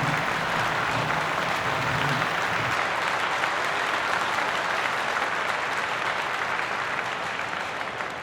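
Crowd applauding and cheering, fading away near the end.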